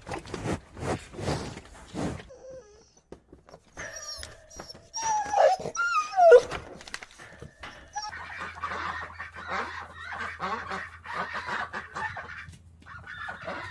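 Animal calls: a few short calls that bend in pitch, about five seconds in, between stretches of clatter and rustling.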